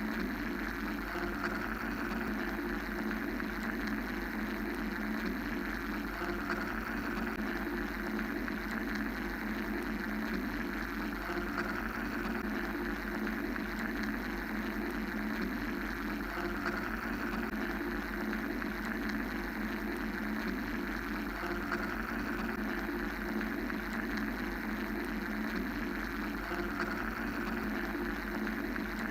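Steady mechanical white-noise drone: a constant low hum under a band of hiss that swells and eases gently about every five seconds.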